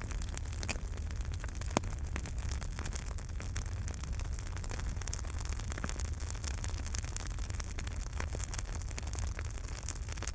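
Wood fire burning in a fireplace: a steady low rush with frequent small crackles and pops, one sharper pop about two seconds in.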